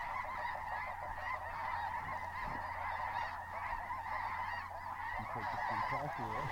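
A large flock of snow geese calling, many overlapping honks merging into a continuous clamor at a steady level.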